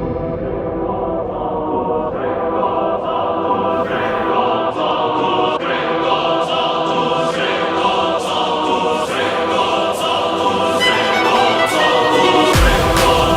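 Choral music with sung voices over soft instrumental accompaniment, growing fuller near the end.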